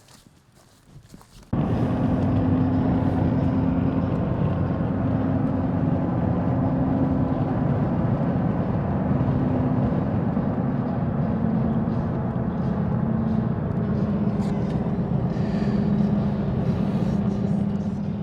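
Vehicle engine and road noise, a steady drone that starts abruptly about a second and a half in and holds steady.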